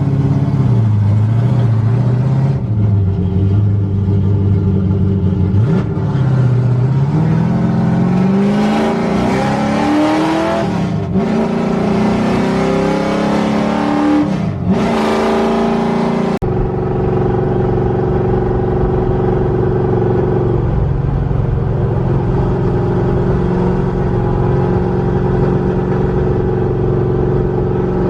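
408 cubic inch LS V8 in a Nissan 240SX (S14) driving. Its engine note climbs in pitch several times with sudden drops in between as it pulls through the gears. After an abrupt cut about 16 seconds in, it runs at a steady pitch.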